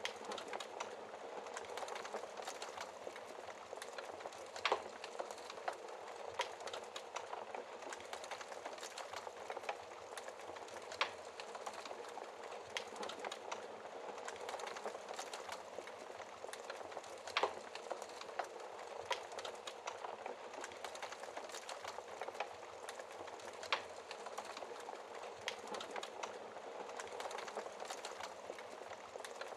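Wood fire burning in a fireplace: a steady soft hiss of flames, many small crackles and four sharper pops from the burning logs spread through it.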